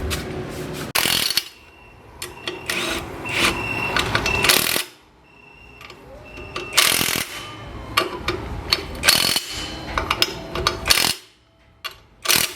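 Workshop tool noise in short, separate bursts: a power tool runs briefly several times, with clatter and knocks in between.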